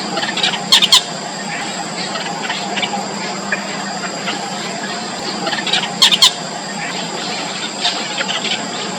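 Yellow bittern chicks in the nest giving many short, high squeaky calls, with two louder doubled squawks, about a second in and about six seconds in.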